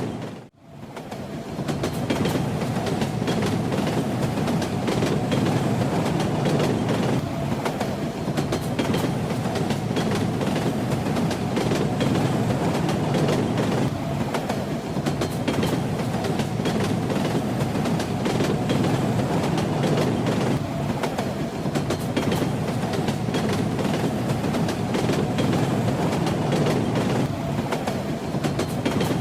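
Train wheels knocking over the rail joints under a steady rumble of a moving train, with a scatter of small clicks and rattles. The sound drops out briefly about half a second in, then resumes.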